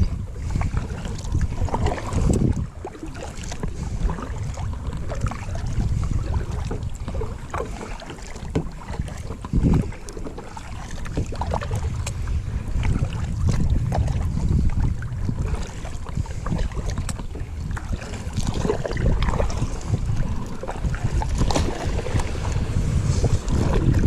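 Wind buffeting an action-camera microphone with a steady low rumble, broken by scattered light knocks and clicks.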